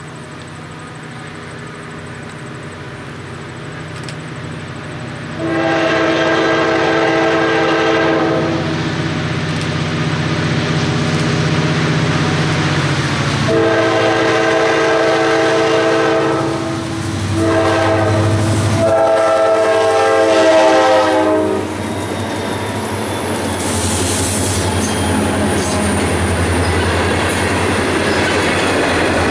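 Ohio Central SD40-2 diesel locomotive approaching and passing, its engine rumble growing louder, blowing a multi-note chord horn in four blasts, long, long, short, long: the grade-crossing signal. After it passes, loaded freight cars roll by with wheels clicking on the rails.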